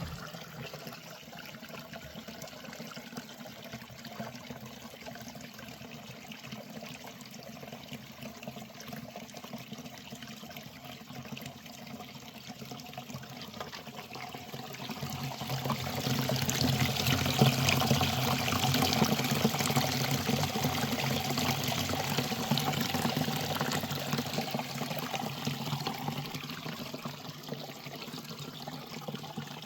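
Water running and splashing steadily, growing louder about halfway through and easing off near the end.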